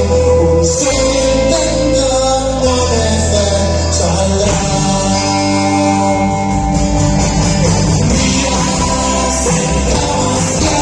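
Live rock band music: a singer holding long notes over guitar and bass.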